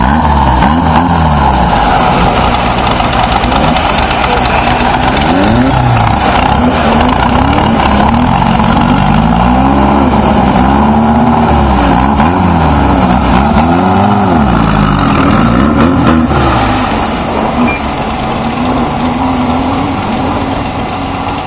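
Class 11 stock Volkswagen Beetle race cars' air-cooled flat-four engines revving, the pitch rising and falling every second or two. The sound eases a little near the end.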